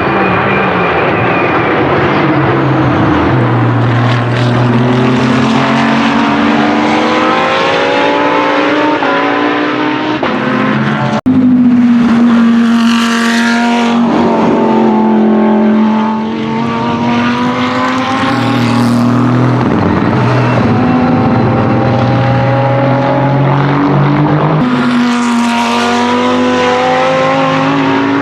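Lamborghini Huracan GT3 Evo's naturally aspirated V10 at racing speed, its pitch climbing through the gears again and again. It passes close by twice, near the middle and near the end, and the sound cuts abruptly about eleven seconds in.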